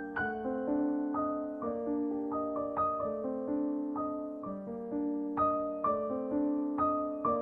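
Background music: a gentle piano melody playing notes at about two a second, with no other sound over it.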